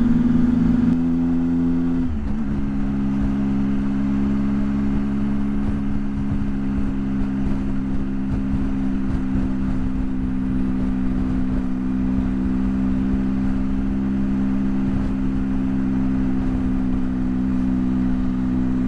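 Motorcycle engine running under way, with wind and road noise. The engine note changes about two seconds in, then holds a steady pitch.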